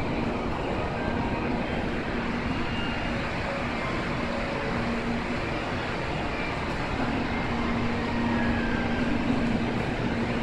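Steady hum and rush of a Shinkansen train standing at the platform with its onboard equipment running. A low hum grows stronger about two-thirds of the way through.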